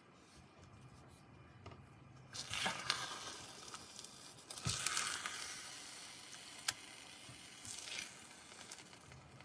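Food sizzling faintly in a HexClad hybrid stainless and non-stick wok, with two short swells of noise about two and a half and five seconds in, and a sharp click a little before seven seconds.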